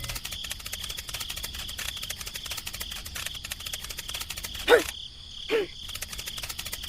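Insects chirring steadily in a high, fast-ticking drone. Two short calls, each dipping and then rising in pitch, come about a second apart just past the middle.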